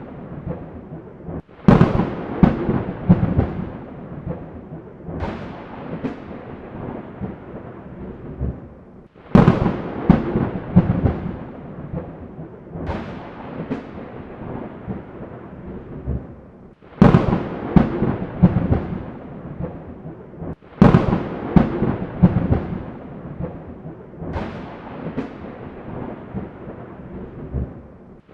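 Thunderstorm: a run of sharp thunderclaps, a new crack every three to four seconds, each rolling off into a low rumble before the next.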